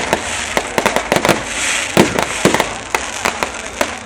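Fireworks display: rapid, irregular bangs of exploding shells, several a second, over continuous crackling.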